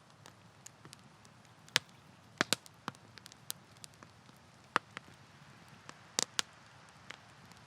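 Wood fire crackling: irregular sharp pops and snaps over a low steady hiss, the loudest snaps coming in a few close pairs.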